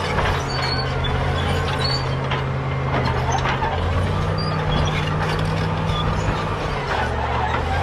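Caterpillar D7G bulldozer's diesel engine running steadily, stepping in pitch about halfway through and again near the end, with short high squeaks and clanks from the steel tracks.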